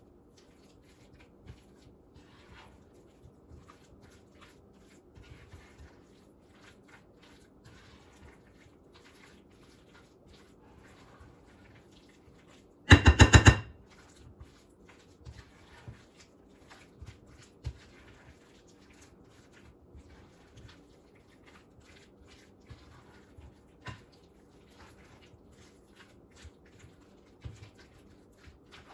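A spoon stirring and folding a thick dressing in a bowl, with faint scrapes and clicks. About halfway through comes a loud, quick run of taps, like the spoon being knocked against the bowl's rim.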